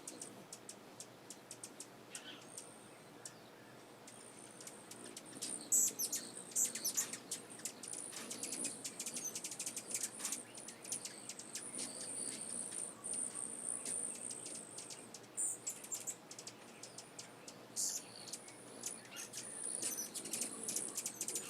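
Many small birds chirping and twittering in a dense run of short, high chirps, over a steady high-pitched shrill.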